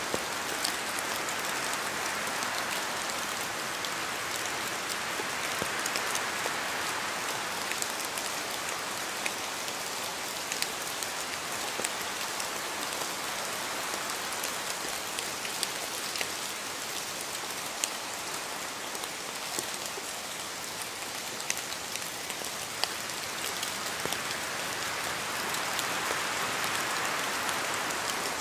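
Steady rain falling on a surface, an even hiss with scattered individual drops ticking sharply through it, swelling slightly near the end.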